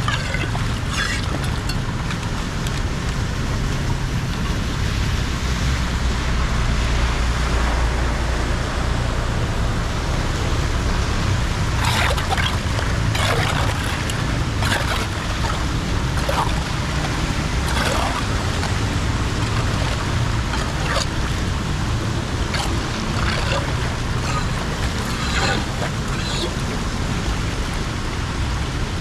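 Water rushing and sloshing steadily under a low rumble, with scattered short splashes.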